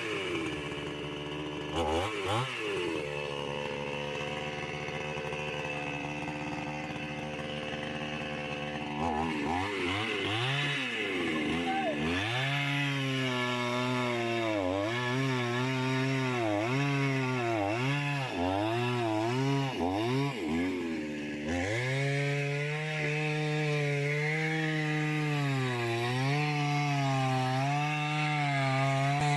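Chainsaw engine running steadily, rising once briefly about two seconds in, then cutting into wood from about a third of the way in, its pitch rising and sagging again and again under load. It eases off briefly about two-thirds through, then cuts on.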